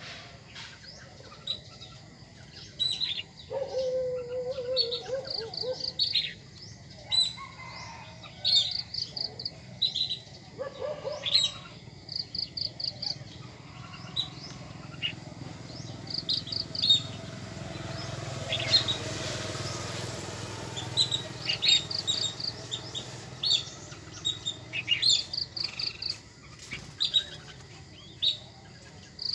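Small birds chirping: short, rapid trills of high notes repeated every second or two. A lower, drawn-out wavering call comes about four seconds in, and a rushing noise swells and fades around the middle.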